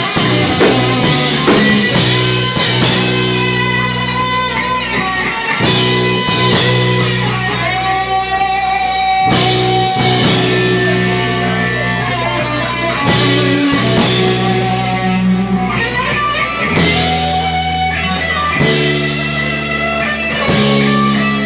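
Live rock band playing an instrumental passage, with electric guitar to the fore over bass and drums. The guitar holds long sustained notes, and cymbal crashes fall among them.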